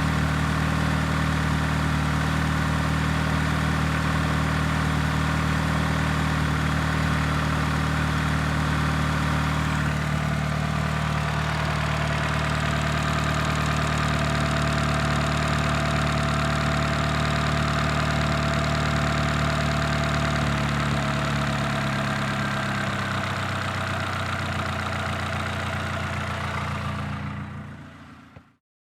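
Car engine idling steadily with a low, even hum, its tone shifting slightly partway through. The sound fades out near the end.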